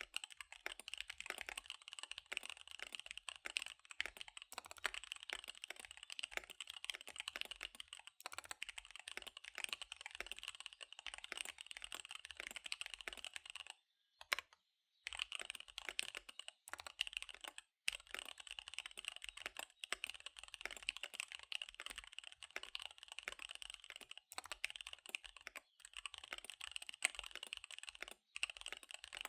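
Fast continuous typing on a KBD75 V3 mechanical keyboard with SP-Star Dark Magic Girl tactile switches and DSA keycaps: a dense run of key clacks. About halfway through there is a brief pause, broken by one louder click.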